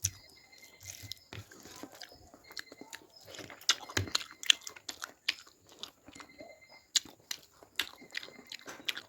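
Close-up chewing and biting on fish, with irregular sharp crunchy clicks every fraction of a second.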